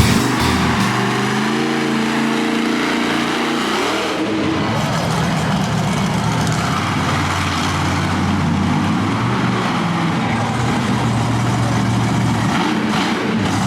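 Monster truck engine revving, its pitch rising and shifting over the first few seconds, then running loud and steady with a heavy rush of noise over the low engine note.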